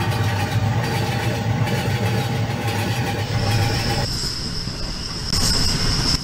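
Pakistan Railways Subak Raftar rail car running along the track, heard from aboard: a steady low rumble for about four seconds. It then changes abruptly to lighter track noise with a steady high-pitched squeal that swells louder near the end.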